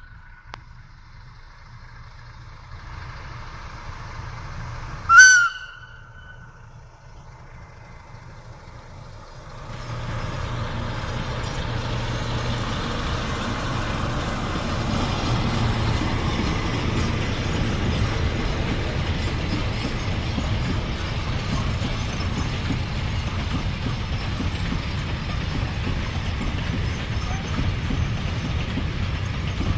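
A train horn gives one short, loud blast about five seconds in. From about ten seconds in a train is heard passing, a steady rumble of wheels on the rails that holds to the end.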